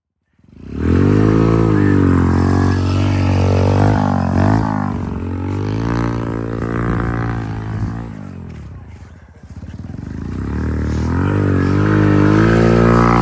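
Motorcycle engine revving up and down, its pitch rising and falling. It eases off around the middle and then builds again.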